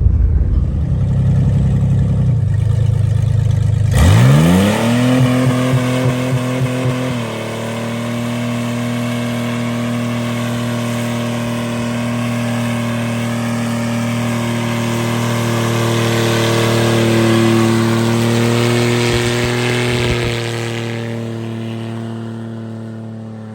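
Car engine running at a low rumble, then revving up sharply about four seconds in and holding at a steady high speed for a long stretch. The sound fades near the end.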